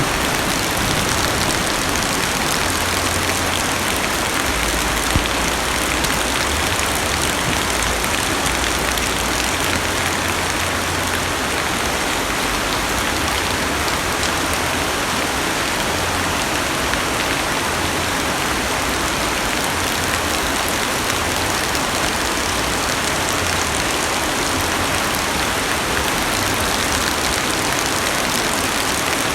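Heavy rain pattering steadily on a car's roof and windows, heard from inside the cabin, with a low rumble that comes and goes underneath.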